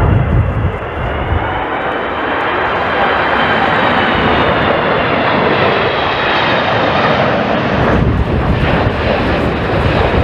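A jet airliner's engines heard close by as the plane passes on approach or go-around: a loud, steady rush of engine noise with a high whine that slowly shifts in pitch.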